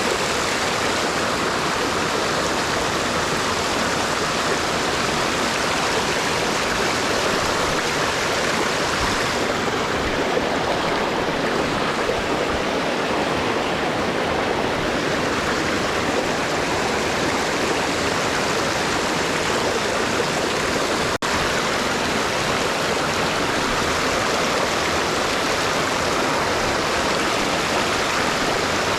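Small mountain stream running steadily over rocks, a constant rushing and burbling of water. The sound breaks off for an instant about 21 seconds in.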